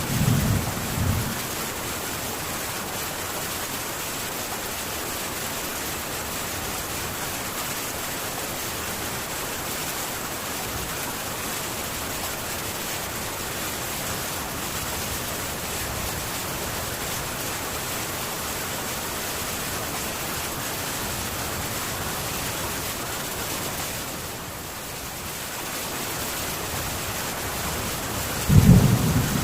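Rain falling on a metal tin roof, a steady even hiss that dips briefly a few seconds before the end. A low rumble of thunder dies away in the first second or so, and a loud rumble starts again just before the end.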